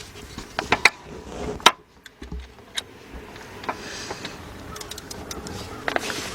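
Metal clicks and knocks of a ratchet being fitted onto a socket extension and worked on a bolt, with the sharpest knock about a second and a half in and a run of clicks near the end.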